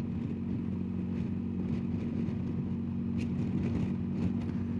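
BMW R1250GS Adventure's boxer-twin engine running steadily at an even cruising speed, heard from the moving motorcycle.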